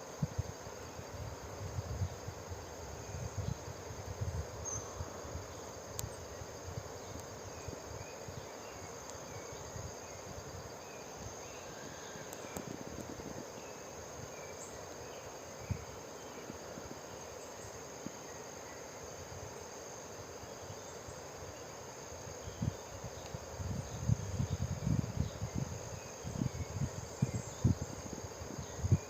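Forest ambience with insects trilling steadily at a high pitch. Gusts of wind buffet the microphone near the start and again in the last few seconds.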